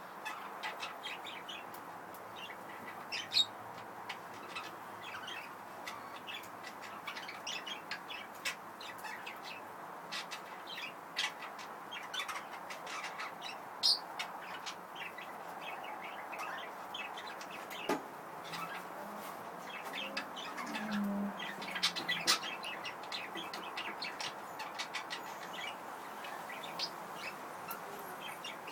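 Budgerigars chirping and chattering: a continuous stream of short, high chirps, with a few louder calls standing out.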